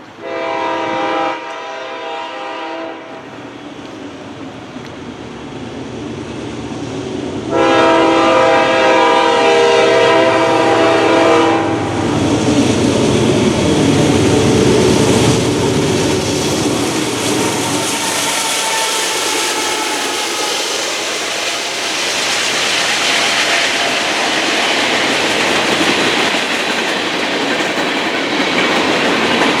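Train horn sounding a short blast, then a longer one of about four seconds that is the loudest part; then the train passes close by with a steady rumble of wheels on rail that holds to the end.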